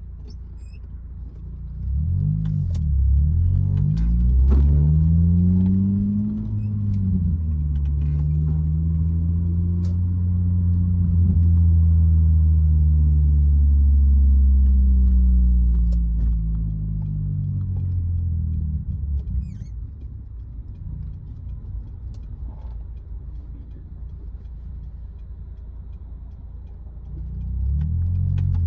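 Honda K20Z1 four-cylinder heard through an Invidia N1 catback exhaust, a deep low note. It climbs in pitch over the first few seconds and holds steady for about ten seconds. It then drops back to a quieter, lower note, and rises and gets louder again near the end.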